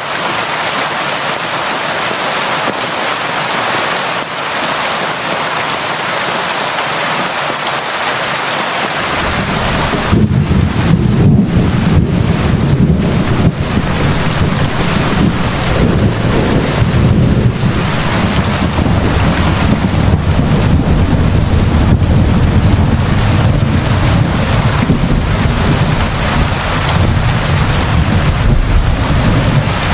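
Steady, heavy rain. About nine seconds in, a deep rumble of thunder sets in under the rain and rolls on through the rest.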